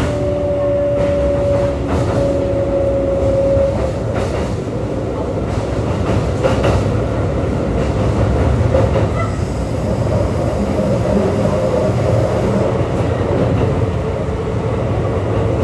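Running sound inside a Kintetsu 3200 series train car at the car end: steady wheel-and-rail rumble with rail-joint clacks and the fairly loud hum of the car's air conditioning. A slowly falling tone from the Mitsubishi GTO VVVF inverter sounds at first and stops about four seconds in.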